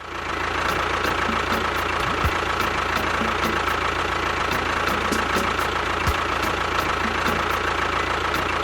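A small motor running steadily, with a light regular ticking about three to four times a second.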